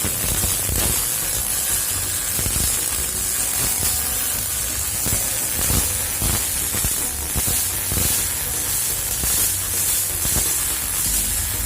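MIG welding arc with CO2 shielding gas, a steady crackling sizzle.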